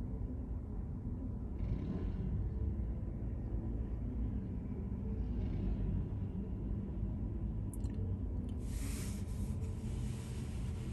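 Steady low rumble of a car on the move, heard from inside the cabin, with a brief rushing hiss about nine seconds in.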